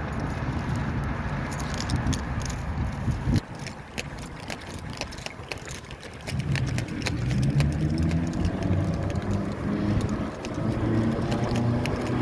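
Motor vehicle engine running close by, louder and steadier from about halfway through, with light rattling clicks over it.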